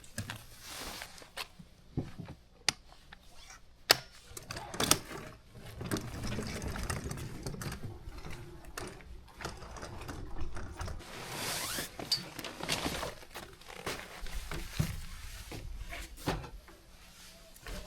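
Handling noises: scattered sharp clicks and knocks amid rustling, with a louder stretch of rustling about two-thirds of the way through.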